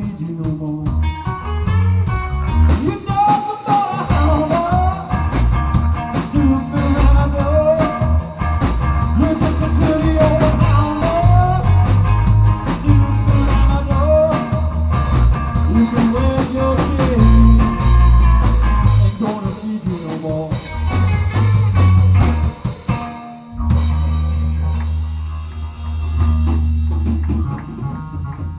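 Live blues trio playing an instrumental break: electric guitar lead lines bending up and down over electric bass and a drum kit. About three-quarters of the way through the band drops out for a moment, then comes back with a long held low note.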